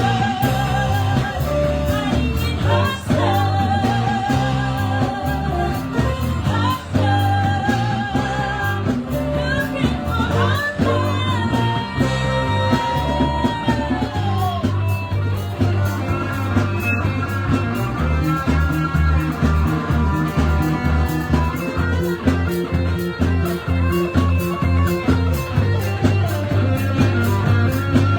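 Live band playing a rock-blues song: a singer holds long notes with vibrato over electric guitar and a steady bass line. In the second half the guitar takes the lead.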